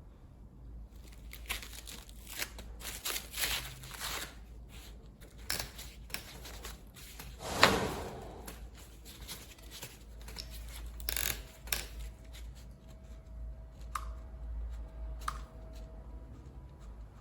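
Handling noises: irregular rustling, scraping and clicks, with one sharp louder knock about eight seconds in.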